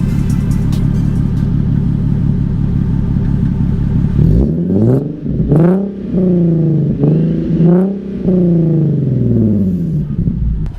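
Nissan Z car engine running through a full ISR aftermarket exhaust with its newly fitted Y-pipe. It idles steadily, then is revved about four times in quick blips, and the pitch falls back toward idle near the end.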